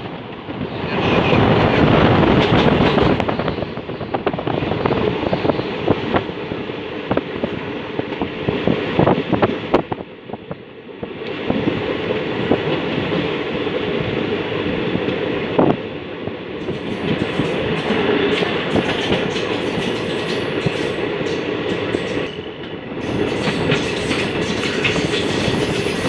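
Indian Railways passenger train running at speed, heard from aboard at an open window: a steady rumble and rush with the wheels clicking over rail joints. The sound drops briefly about ten seconds in.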